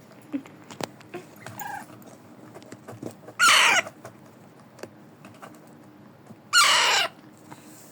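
Baby Alexandrine parrot chick giving two loud, harsh squawks about three seconds apart, the begging calls of a hand-fed chick, with a few faint ticks in between.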